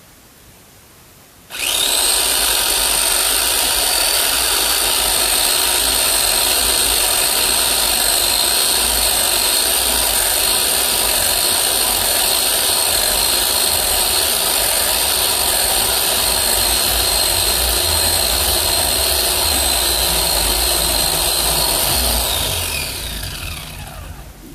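Electric chainsaw motor starting abruptly and running at a steady speed for about twenty seconds, then winding down with its whine falling in pitch near the end.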